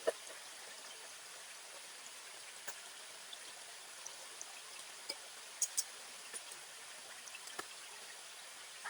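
Campfire crackling: scattered sharp pops, the loudest right at the start and a close pair about five and a half seconds in, over a steady soft hiss.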